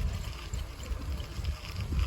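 Wind buffeting the microphone of a camera carried on a moving bicycle, a gusty low rumble with a faint hiss above it.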